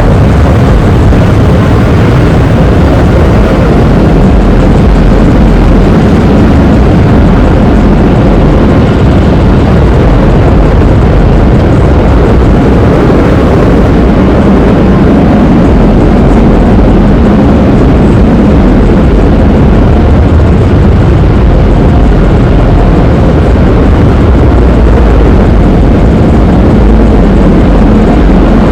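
Automatic car wash heard from inside the car: a loud, steady rush of water spray and machinery against the body and windows, with no letup.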